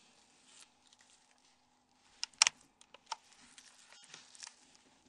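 Light clicks and taps of small hard objects being handled, with a few sharper clicks a little over two seconds in and another around three seconds.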